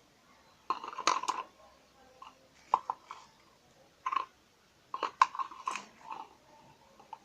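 Spoon clinking and scraping against a bowl and spice containers in short clusters while dry spices are added to gram flour.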